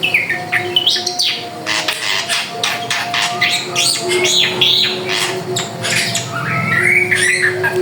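Drongo (srigunting) singing nonstop: a rapid, varied run of sharp chips, short whistles and harsh squawky notes.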